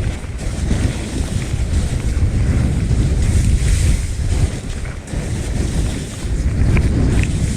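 Strong gusty wind buffeting the microphone: a heavy, rumbling noise that swells and dips.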